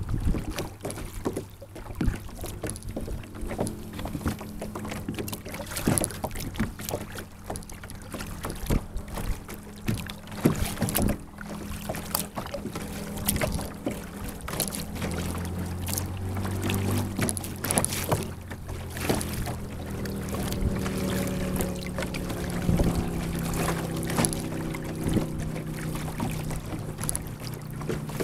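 Kayak paddling heard from on board: paddle blades splashing and water dripping, with irregular small knocks, over a low steady hum that shifts in pitch a couple of times.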